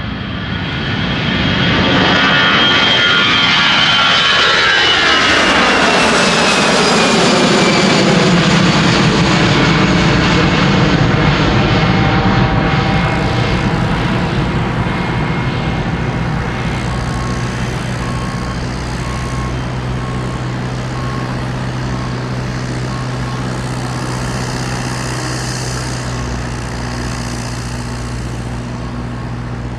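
A jet aircraft passing close by, its engine whine falling steadily in pitch as it goes past. It then settles into a lower, steady rumble.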